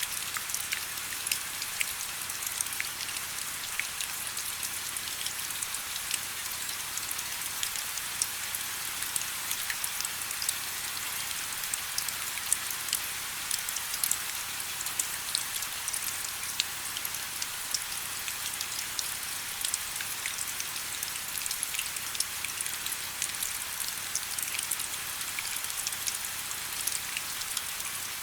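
Steady rain falling, a constant high hiss dotted with many small drop ticks.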